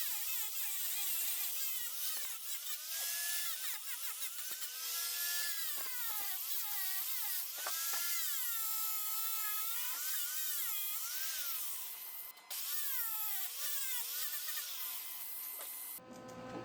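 Grinder grinding down a fresh weld bead on a steel mower-deck bracket, a steady hissing grind with a whine that wavers up and down in pitch. It breaks off briefly about twelve seconds in and stops near the end.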